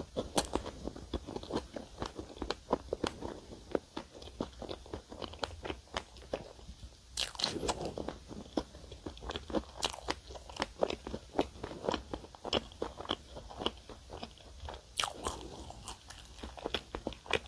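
Close-miked chewing of strawberry-and-cream-filled salt bread: a steady run of wet mouth clicks and smacks, a little busier about halfway through and again near the end.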